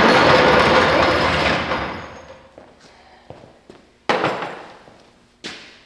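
LB7 Duramax 6.6-litre V8 turbo-diesel starting up and running loudly, then dying away about two seconds in. Two sharp thuds follow near the end.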